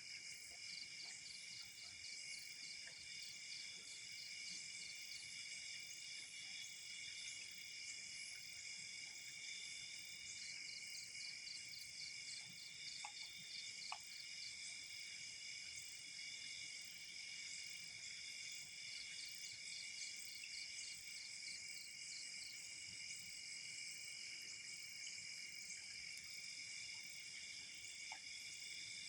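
Night insects calling in a steady, high, faint chorus, with a pulsed chirping that comes and goes several times. A couple of faint pops sound near the middle.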